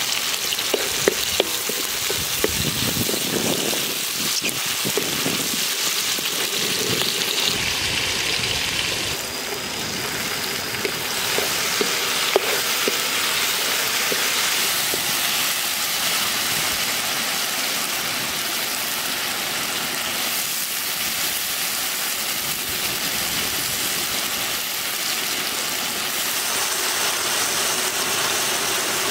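Sliced red chillies and peppers sizzling steadily in hot oil in a metal pan. In the first few seconds a wooden spatula clicks and scrapes against the pan as they are stirred.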